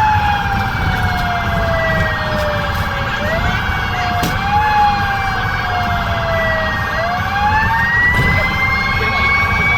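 Fire engine's siren wailing: the pitch falls slowly for several seconds, then climbs again about seven seconds in. A steady higher tone runs alongside it, over constant engine and road rumble.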